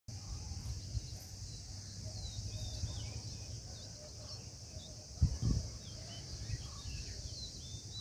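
Small birds giving many short, high chirps and twitters over a steady high hiss and a low rumble, with two dull thumps a little past five seconds in.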